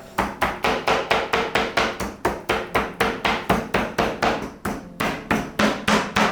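Rapid, evenly spaced strikes of a kitchen tool on a hard surface, about four a second, from chopping or pounding food; they stop at the end.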